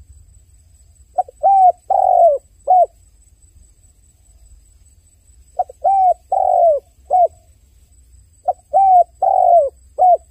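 A dove cooing: three phrases a few seconds apart, each of four coos, a short note, two longer ones, then a short closing note.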